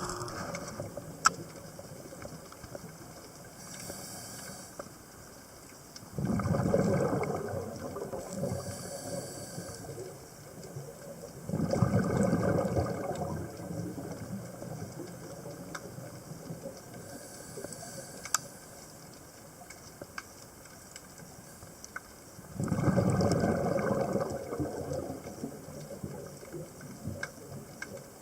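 Scuba diver's regulator breathing underwater: three long bubbling exhalations a few seconds apart, with fainter hissing inhalations between them.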